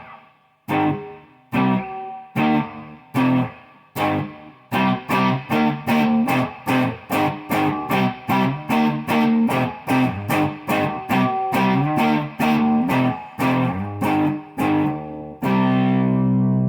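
Wolf Les Paul-style electric guitar played through the clean channel of a BK Butler amp, with the pedals switched off. Separate strummed chords ring and decay at first, then a steady run of quick rhythmic strums, about three a second, ending on a chord held and left to ring near the end.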